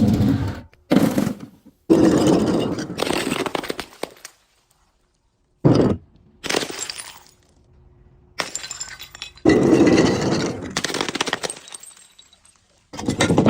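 Brittle things being crushed and breaking: a series of sudden cracking crunches, each trailing off in crackles, with a short quiet gap a little before the middle.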